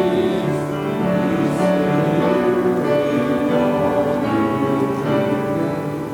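Piano music playing slow, sustained chords that change about once a second.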